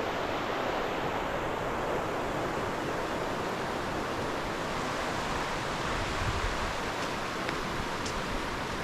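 Steady rushing of the Tieton River running alongside the trail, an even noise with no break. A brief low rumble comes about six seconds in.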